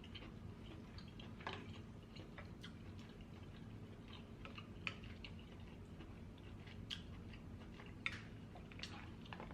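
A person chewing king crab meat, with soft wet mouth clicks and smacks scattered a few times a second.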